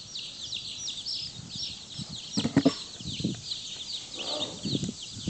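A crowd of day-old Black Jersey Giant chicks peeping constantly, many short falling chirps overlapping. A few louder thumps about two and a half seconds in, the loudest moment.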